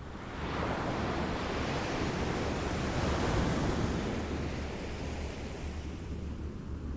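Waves washing up on a shore, one wave swelling over the first second or two, peaking about halfway through and then receding, over a steady low rumble of wind.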